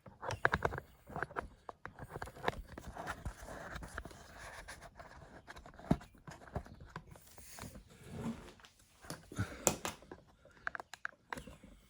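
Close handling noise from a camera and its mount being repositioned: irregular clicks, knocks and scraping, with a few sharper knocks about two, six and nine to ten seconds in.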